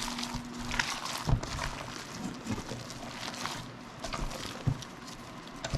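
Hands mixing ground sausage meat with chunks of sharp cheddar: irregular short squelches and knocks of working the mix.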